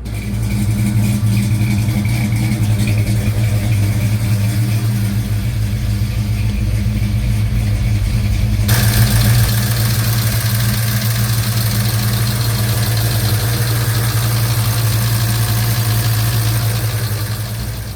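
Chevy 307 small-block V8 running steadily with a loud, diesel-like valve-train clatter. The cause is mismatched valve springs and retainers. About halfway through, the higher clattering part of the sound abruptly becomes louder.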